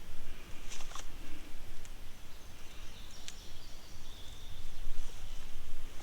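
Outdoor ambience: a steady hiss and low rumble with a few light clicks, and faint high bird calls in the middle.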